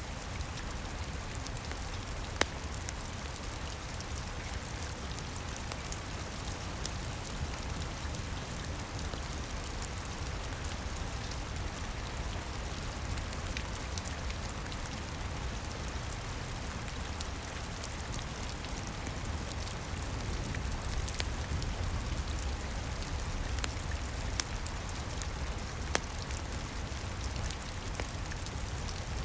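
Steady rain with a low rumble underneath, and scattered sharp pops of a crackling fireplace fire, one loud pop about two seconds in and another near the end.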